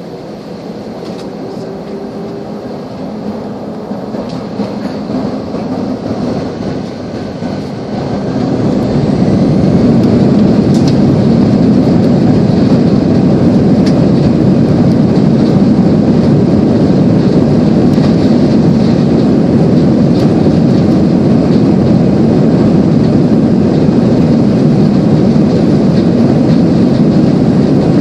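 Airliner's engines spooling up to takeoff power, building over several seconds and then jumping to a loud, steady rumble of takeoff thrust and the takeoff roll, heard from inside the cabin.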